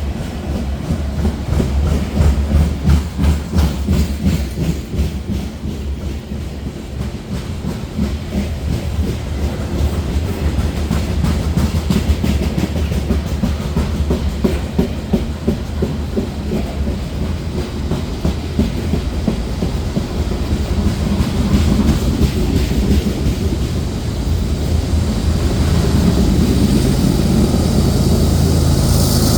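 Loaded grain cars of a slow freight train rolling past, with steady wheel clatter over the rail joints and a heavy low rumble. In the last several seconds a steady diesel drone builds and grows louder.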